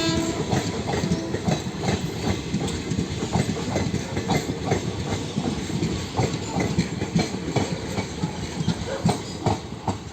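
A passing train's wheels clattering over the rail joints, many quick clicks over a steady rumble, fading away near the end. A locomotive horn's note cuts off just as it begins.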